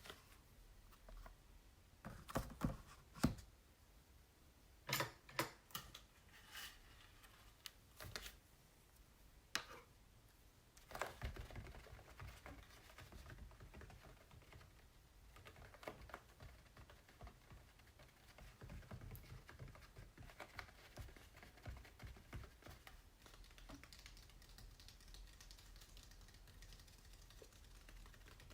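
Tapping on acrylic paintings on canvas: small groups of sharp, faint taps, then softer scratching and tracing across the painted surface from about halfway in.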